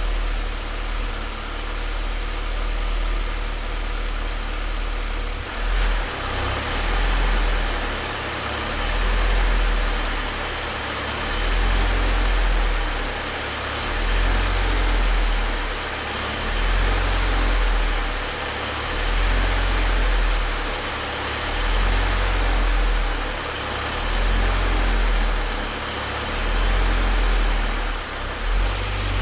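Car engine idling roughly. From about six seconds in, the idle swells and sags in a slow, uneven rhythm roughly every two seconds.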